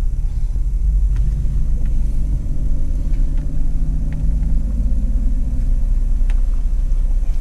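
Car running, heard from inside the cabin as a steady low rumble; the engine note climbs a little for a few seconds, then settles back.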